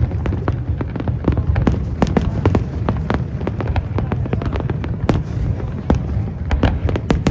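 Aerial fireworks going off in a rapid, irregular barrage: several sharp bangs a second over a continuous low rumble of booms.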